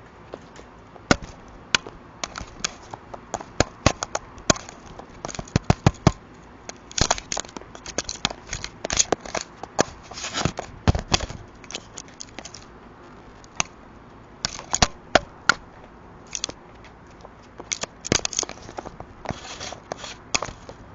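A crow pecking and scraping at an Arlo security camera's housing: irregular sharp taps, some in quick runs, mixed with scratchy scraping.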